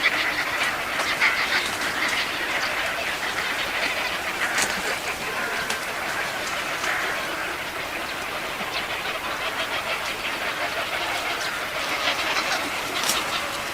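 Birds calling and chattering over a steady hiss, with a couple of sharp clicks.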